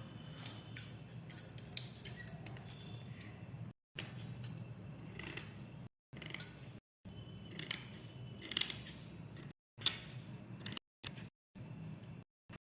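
Irregular small clicks, snips and light scraping, as of hand tools or materials being handled. The sounds come in short stretches broken by abrupt silent cuts.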